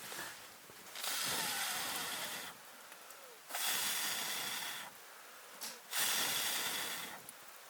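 Three hard breaths blown out, each about a second and a half long, evenly spaced.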